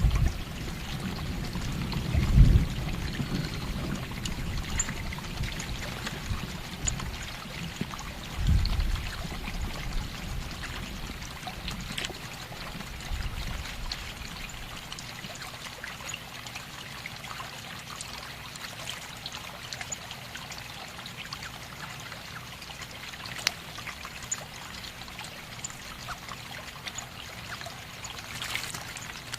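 Running water trickling and pouring steadily, with scattered sharp ticks and a couple of low thumps in the first ten seconds.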